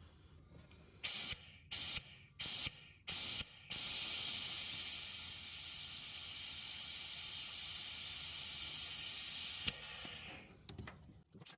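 Compressed air hissing through a pneumatic vacuum bleeder: four short blasts, then one steady hiss for about six seconds that cuts off suddenly. The hiss is the bleeder sucking brake fluid out through the clutch bleed nipple to flush the clutch hydraulics.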